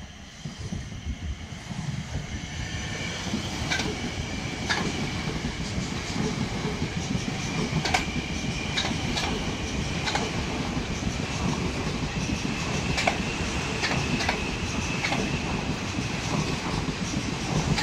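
Passenger multiple-unit train passing directly underneath, growing louder over the first few seconds. Its wheels clack irregularly over the rail joints and pointwork at the junction, and a steady high whine comes in during the second half.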